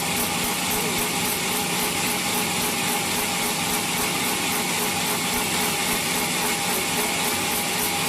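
Sawmill saw running steadily, a constant loud hiss over a steady hum.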